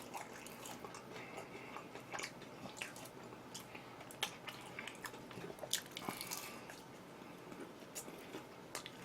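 Faint chewing and mouth sounds of a person eating, with scattered soft clicks and smacks.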